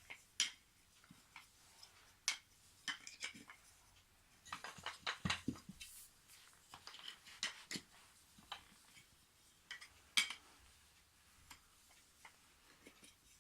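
IKEA toy train track pieces being handled and fitted together: scattered light clicks and knocks, with a quick run of them about five seconds in and a sharp knock about ten seconds in.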